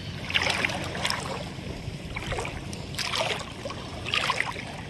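Water splashing and sloshing in short bursts about once a second, over a steady low rumble.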